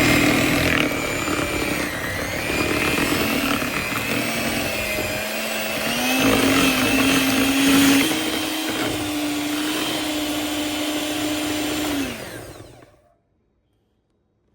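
Electric blender running on thick refried beans, its motor pitch shifting a few times as the load changes. It is switched off about twelve seconds in and winds down.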